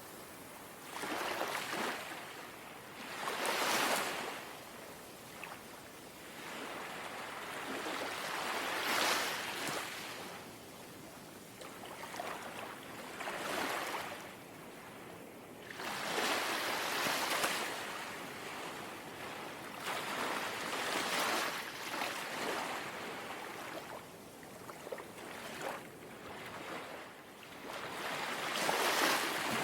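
Small, gentle sea waves lapping on the shore: soft washes of water that swell and fall back every few seconds, some louder than others.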